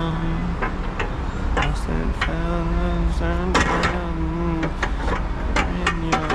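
A voice singing or humming held notes, over scattered sharp clicks and knocks and a steady low hum.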